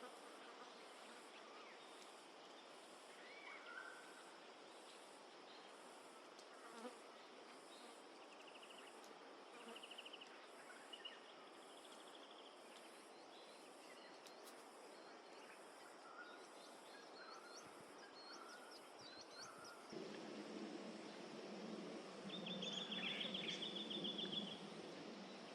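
Faint woodland ambience: a high-pitched insect chorus pulsing about once a second, with scattered short bird chirps and trills, and a rapid bird trill near the end. A low rushing noise joins about twenty seconds in.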